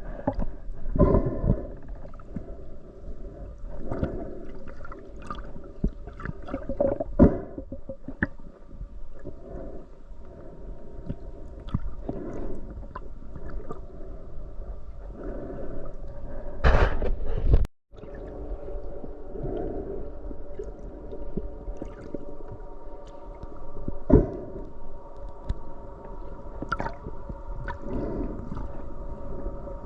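Underwater sound picked up by a submerged camera during a spearfishing dive: muffled water movement and gurgling over a steady hum, with scattered sharp clicks and knocks. The sound drops out briefly a little past halfway.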